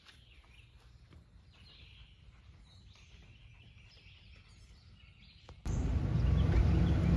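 Quiet outdoor ambience with faint bird chirps. About five and a half seconds in, it is abruptly replaced by a loud low rumble.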